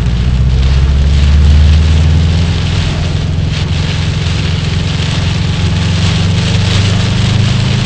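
Car driving in heavy rain, heard from inside the cabin: a low engine and road hum under a steady hiss of rain and wet tyres. The hum swells over the first couple of seconds, then holds steady.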